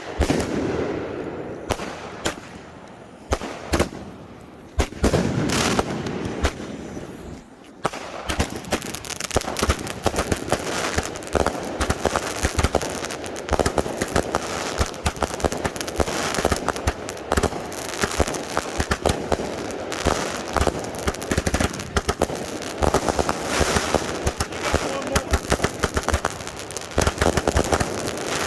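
Consumer firework cakes firing close by. Over the first few seconds there are scattered single shots and bangs, then from about eight seconds in a dense, continuous barrage of rapid cracks and crackle.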